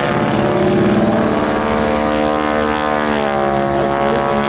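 Harvard IIB (T-6) in flight: its Pratt & Whitney nine-cylinder radial engine and propeller run loud and steady. About three seconds in, the pitch dips and then rises again.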